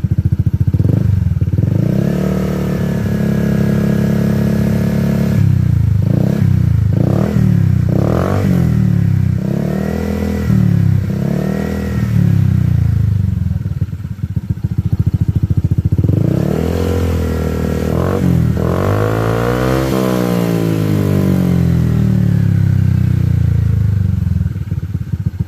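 Honda ADV scooter's single-cylinder engine revved through an aftermarket stainless-steel slip-on exhaust. It idles, is held at high revs for a few seconds, then gets a run of short blips, and late on a longer rev rises and falls back to idle.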